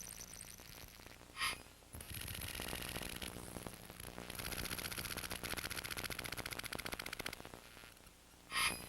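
Rock music played back at extreme speed, turned into a garbled, buzzing chatter. There is a short high chirp about one and a half seconds in and another near the end.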